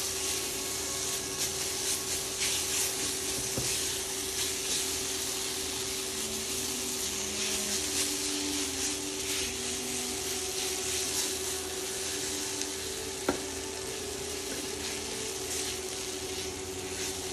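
Chopped nuts, oats and date paste sizzling as they fry in ghee in a non-stick pan, with a silicone spatula stirring and scraping through the mixture. A steady hum runs underneath, and there is one sharp click about thirteen seconds in.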